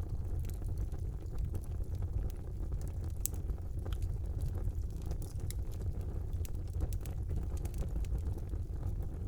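Fire burning in a brick fireplace: a steady low rumble of flames with frequent small crackles and pops scattered throughout.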